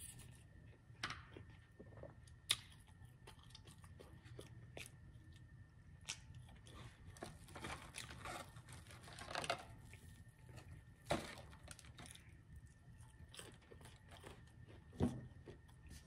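Close-up eating sounds of Popeyes fried food: chewing and crunching, with a few sharp clicks along the way.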